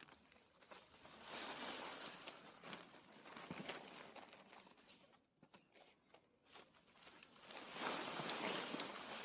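Soil and bag rustling and scraping as potatoes are dug out of a grow bag, in two stretches with a quieter gap between.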